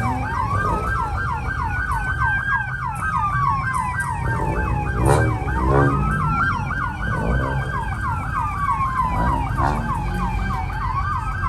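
Two police sirens sounding at once: one in a slow wail that rises and falls over several seconds, the other in a fast repeating yelp. A low vehicle rumble runs underneath.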